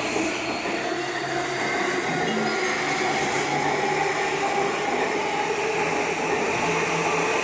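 Electric commuter train running alongside the platform: a steady running noise with several whining tones held throughout.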